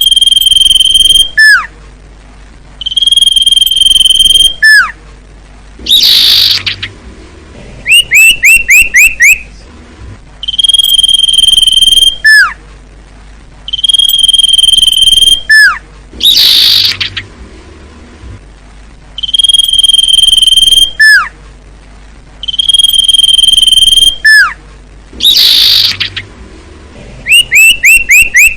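Recorded bird song of the kind sold as a 'sirtu cipoh' song-teaching track. Long, steady, high whistles each end in a quick downward slur. They alternate with a harsh rasping burst and fast runs of four or five short upswept chirps, and the phrases repeat every few seconds.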